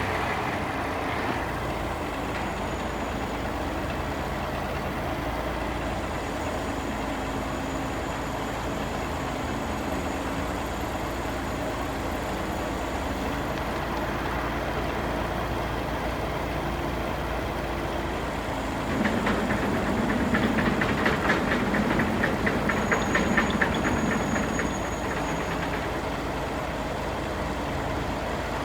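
Cummins 350 diesel engine of a 1980 International crane truck running steadily. About two-thirds in it grows louder, with a rapid, even clatter for roughly six seconds, then settles back to its steady running.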